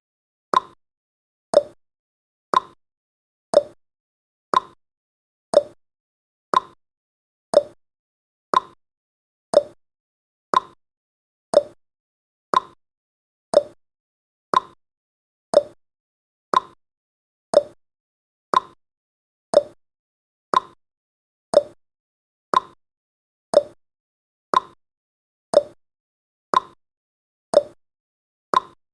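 Countdown timer's clock-tick sound effect: a short sharp tick once every second, evenly paced.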